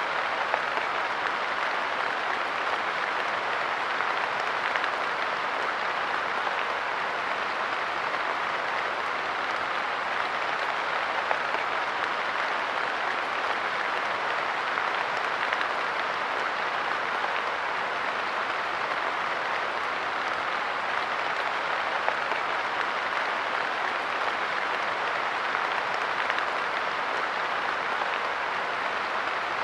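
Light rain falling steadily, a dense even patter of drops on a wooden park bench and the ground around it.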